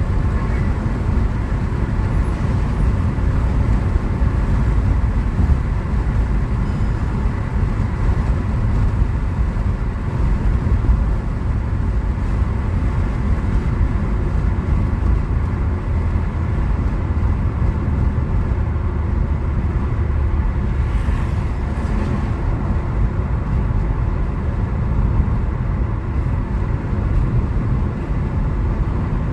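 Steady wind and road noise inside a Hyundai Aura S CNG cruising at about 100 km/h on a highway with the windows down: a constant rush of wind and tyre noise, strongest in the low rumble.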